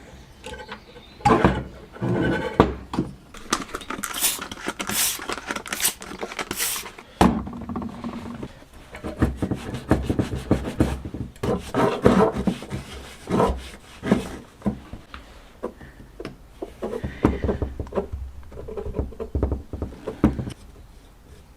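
Irregular clicks, knocks and scraping as small metal parts of a Smiths heater fan motor are handled and worked on during disassembly, with a brief squeak about seventeen seconds in.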